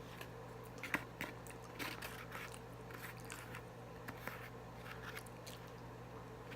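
A person eating close to the microphone: faint bites, crunches and chewing as a string of short, scattered sounds over a faint steady hum.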